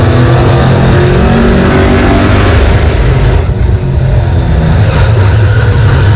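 Super stock race car engine running hard on track, loud and steady, with a short drop in loudness about three and a half seconds in.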